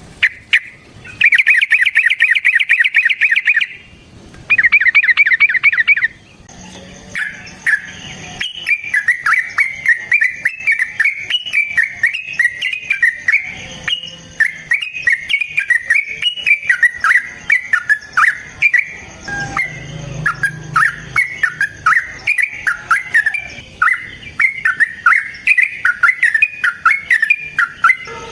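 Yellow-vented bulbul (trucukan) singing: two loud, fast chattering trills in the first six seconds, then a long run of quick, bubbly warbling notes.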